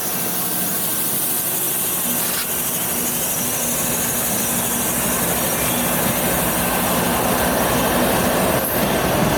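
Freight train rolling past, a steady rumble and rush of wheels on rail with a faint low engine hum underneath.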